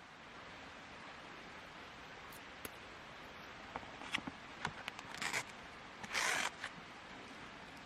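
Gear being handled at close range: a few light clicks and taps, then two short rasping strokes, the second the longer and louder, over a steady faint background hiss.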